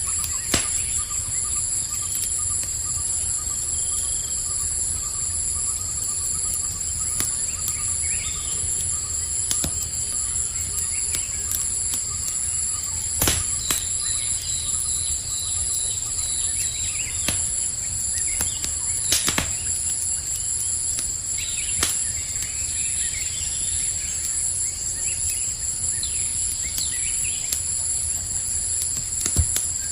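Campfire crackling with scattered sharp pops, over a low rumble and a steady high-pitched chorus of night insects, with a few faint bird chirps.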